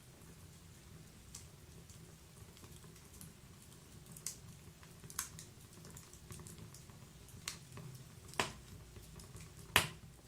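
Fireplace fire crackling: irregular sharp pops over a low steady rumble, the two loudest pops near the end.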